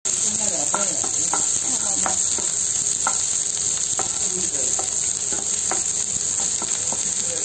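Chopped garlic sizzling steadily in hot oil in a nonstick frying pan, stirred by a wooden spatula that scrapes and taps the pan about a dozen times at an uneven pace.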